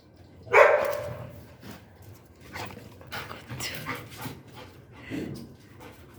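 A pet dog vocalising: one loud, short cry about half a second in, followed by quieter, scattered short sounds.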